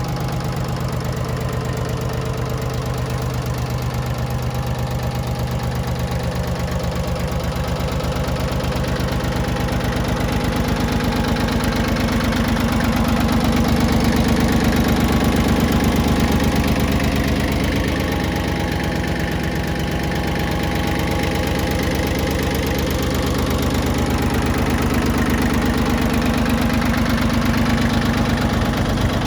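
Yanmar YM1720 compact tractor's diesel engine running steadily with a diesel knock, getting a little louder about halfway through and again near the end.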